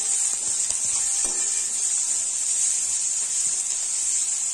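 Onions and ginger-garlic paste sizzling in hot oil in a metal kadhai, a steady frying hiss, with a brief scrape of the perforated metal spatula against the pan about a second in.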